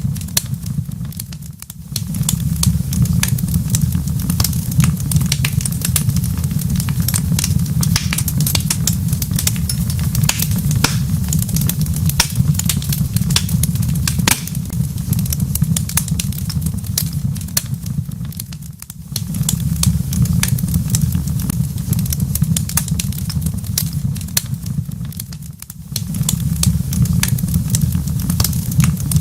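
Wood fire crackling in a fireplace: dense sharp pops and snaps over a steady low rumble. The sound dips briefly three times, near the start, about two-thirds of the way in, and near the end.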